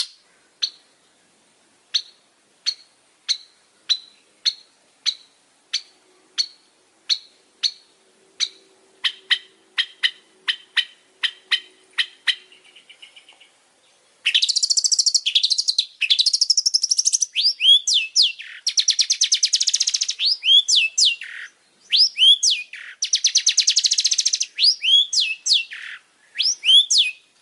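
Long-tailed shrike singing. First comes a run of short, sharp notes, about one a second and speeding up. Then, from about halfway, a loud, dense chattering song of rapid trills and downward-sweeping whistles.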